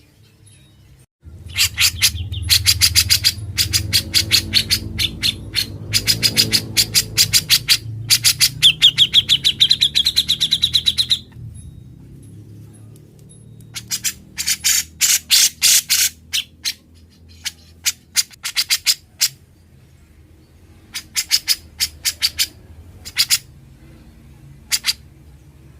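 Cucak jenggot (grey-cheeked bulbul) singing loud, chattering phrases of rapid sharp notes, with a buzzing rattled trill ("ngebren") about two-thirds of the way into the first long phrase. After a pause, shorter bursts of song follow.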